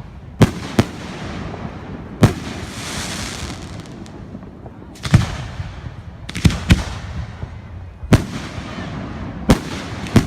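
Fireworks going off: about nine sharp bangs at uneven intervals, a second or so apart. A fizzing crackle follows the third bang for a couple of seconds.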